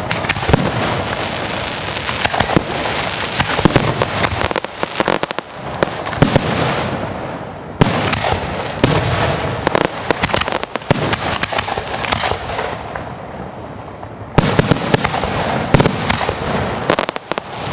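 Fireworks display: aerial shells bursting in quick succession with sharp bangs and crackling, easing briefly and then picking up again with a cluster of loud bangs near the end.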